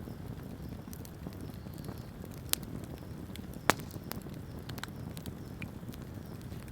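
Wood campfire burning with a steady low rumble and scattered crackles, two sharp pops about two and a half and nearly four seconds in.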